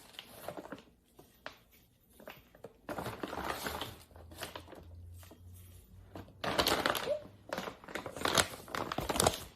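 Intermittent rustling and crinkling with scattered light clicks and taps, from kitchen ingredients and utensils being handled. The rustling comes in two main spells: one about three seconds in, and a longer one over the last three seconds.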